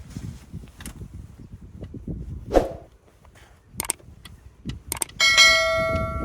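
Hand fuel primer on a Siromer 304 tractor's diesel fuel pump being worked to bleed air after running out of fuel, giving scattered clicks and knocks. About five seconds in, a loud steady squeal with several pitches starts and holds.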